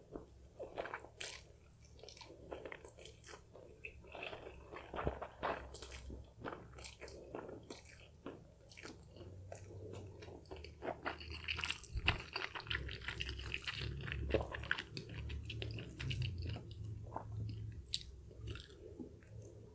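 A person chewing a mouthful of chewy, sticky instant black bean noodles (jjajangmyeon): close-up wet smacking and clicking mouth sounds, busiest a little past the middle.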